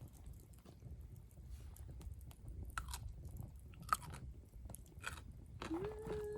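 A person chewing food close to the microphone, with small crunchy bites and mouth sounds in an uneven rhythm.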